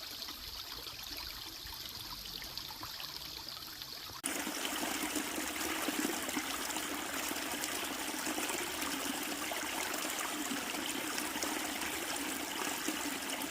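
Mountain valley stream running over rocks, a steady rush of water that jumps suddenly louder and brighter about four seconds in, then holds steady.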